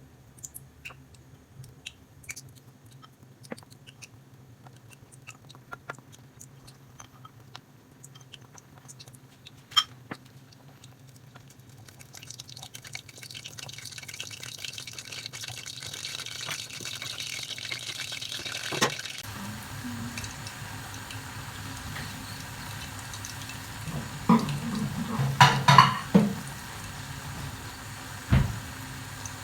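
Kitchen work: scattered light clinks of dishes and utensils, then water running from a tap for several seconds, then a louder clatter of dishes near the end.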